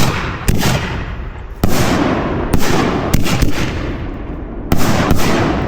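Aerial firework shells going off: a string of about eight loud, sharp booms at irregular intervals of roughly half a second to a second, each trailing off in a rolling echo.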